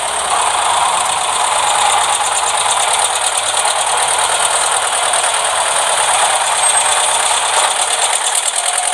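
Small electric motor and plastic gears of a toy construction vehicle running steadily, with a continuous fast rattle.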